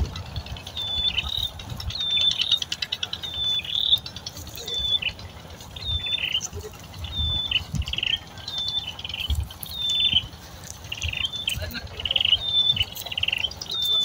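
A bird calling in short high chirps, repeated about once a second, over low rustling and bumps.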